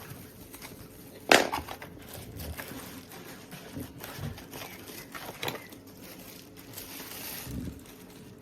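Handling noises: a sharp knock a little over a second in, then scattered lighter clicks and knocks with some rustling. No vacuum motor is running.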